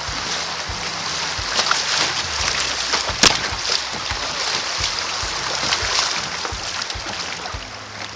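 Creek water rushing and splashing around a kayak moving through moving water, with scattered knocks and one sharp knock about three seconds in.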